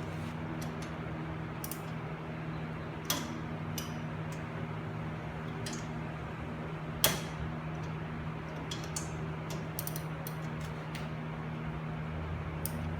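Scattered light clicks and clinks of hand tools and parts being handled while a car's front hub assembly is taken apart, with two sharper knocks about three and seven seconds in. A steady low hum runs underneath.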